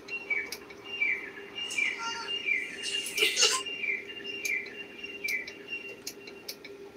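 A small bird chirping: short falling chirps repeated about every two-thirds of a second, with a few sharp clicks and a brief rustle about three seconds in, over a steady hum.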